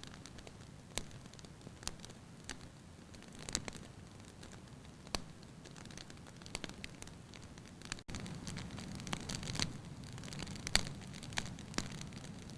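Wood fire in a fireplace crackling, with irregular sharp pops over a steady low rumble and hiss. The sound breaks off for a moment about eight seconds in, and the rumble is a little louder after it.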